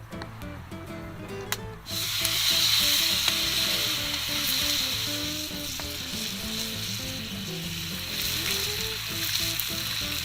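Food sizzling in a hot steel campfire frying pan: the frying starts suddenly about two seconds in and then runs steadily. Quiet background guitar music plays underneath.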